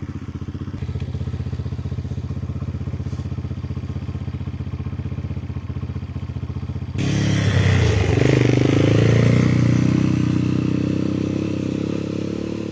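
Motorcycle engine running while riding, with a steady pulsing note. About seven seconds in it gets louder and wind noise comes in, and the engine pitch dips and climbs again soon after.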